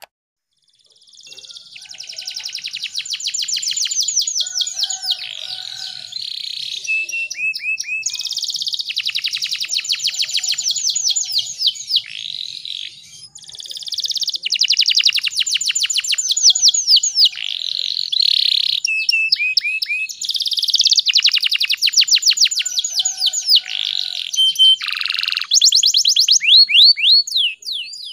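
Domestic canary singing: long runs of rapid trills and rolls, phrase after phrase, with brief pauses between them.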